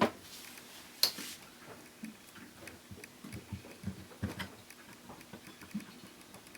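Tools knocking and clicking on an electric trolling motor's housing as it is worked open: a sharp knock at the start and another about a second in, then many small irregular taps and clicks.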